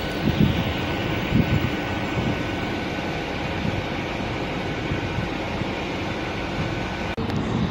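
A Great Western Railway Class 800-series intercity train moving slowly past, a steady rumble with a thin steady whine and two low thumps in the first second and a half. The sound breaks off abruptly about seven seconds in.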